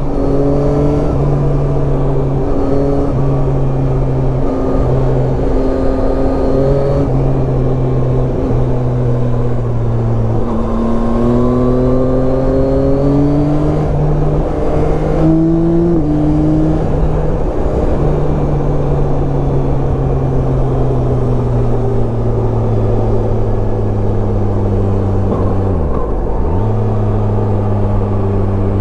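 Yamaha Tracer 9's 890 cc inline-three engine running under way, its pitch rising and falling with the throttle and stepping suddenly at gear changes, including a brief sharp dip and recovery near the end.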